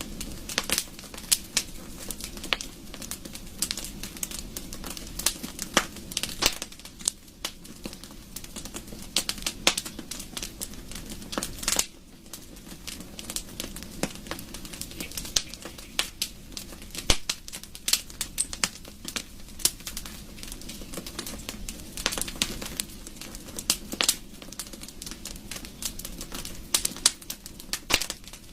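Wood fire crackling in a fireplace: irregular sharp pops and snaps of burning wood over a steady low hiss of the flames.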